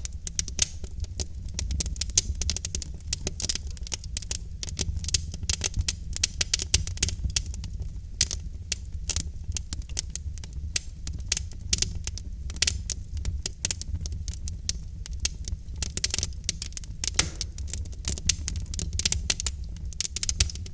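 Wood fire of burning logs in a fireplace crackling, with dense, irregular pops and snaps over a steady low rumble of the flames.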